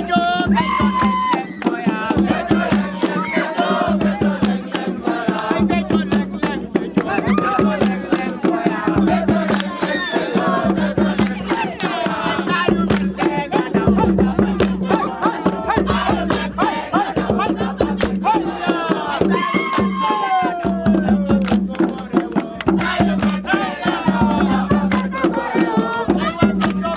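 Many voices singing and shouting together over fast, dense drumming.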